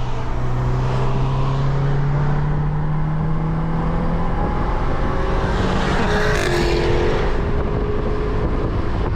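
The turbocharged EJ20Y flat-four of a JDM Subaru Legacy GT at full throttle in a roll race, heard from inside the car. Its note climbs steadily for the first four seconds, then a rush of noise and a drop in pitch come about six and a half seconds in.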